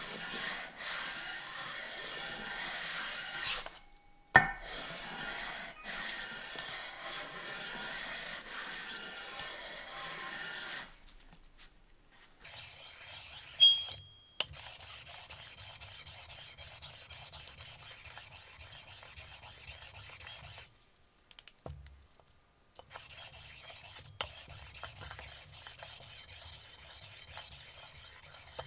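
Abrasive scrubbing against an aluminum motorcycle engine case, a steady scraping hiss in several stretches broken by short pauses, with a couple of sharp clinks.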